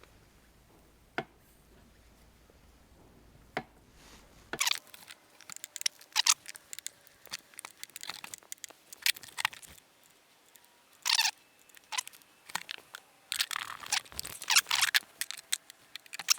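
A hard-disk-drive magnet being fished around inside a 20-litre oil drum to retrieve a dropped tractor drain plug: a few single clicks, then from about four and a half seconds in a run of irregular scraping, clicking and rattling.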